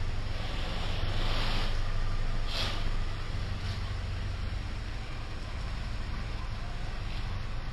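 Parked car's engine idling steadily while being warmed up, a low even hum, with a brief rush of noise about two and a half seconds in.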